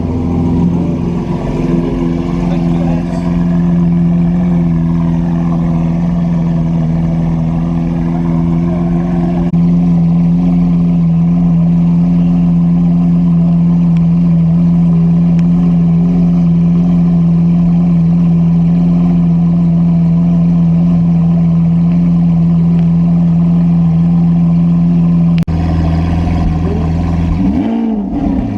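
Lamborghini Aventador S's V12 idling with a loud, steady note. Near the end the engine gives one quick blip of the throttle, its pitch rising and falling.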